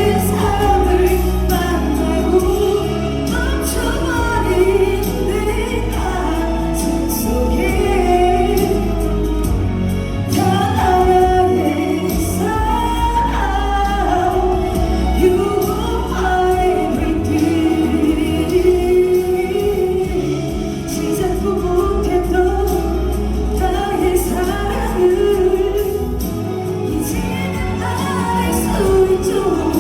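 A song sung with instrumental backing, a solo voice carrying the melody over a steady bass accompaniment.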